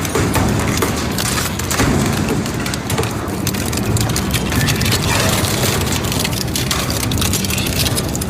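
Crushing machine running, with a dense, steady crackle and clatter of material being broken up over a low machine hum.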